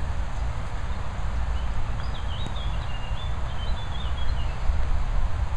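Steady outdoor noise of rain, with wind rumbling on the microphone. From about two seconds in, a bird chirps faintly for a couple of seconds.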